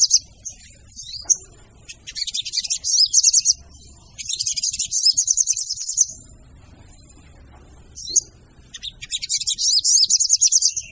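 Female sogon bird calling in bursts of rapid, high chattering notes, each burst one to two seconds long. There are about four bursts with short pauses between them, and a brief call just after the middle.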